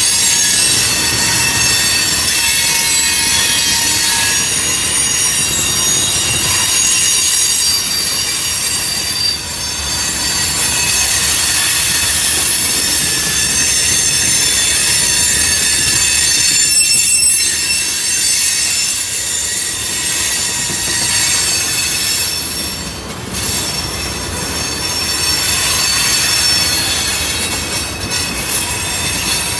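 Freight train of tank cars rolling past, the steel wheels keeping up a steady high-pitched squeal over the rumble of the cars on the rails.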